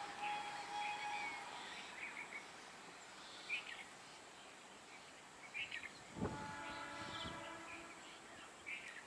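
Faint, distant Indian express train on the line under quiet outdoor noise, with birds chirping now and then. A faint held tone fades out in the first second and a half, and a stronger held tone with a low rumble comes in about six seconds in and lasts about a second.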